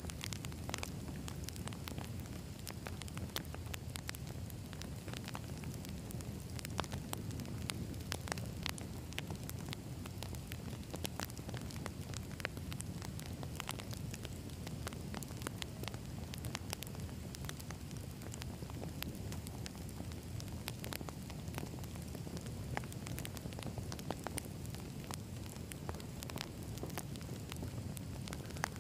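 Wood campfire burning: a steady low rush of flames with frequent, irregular sharp crackles and pops from the burning logs.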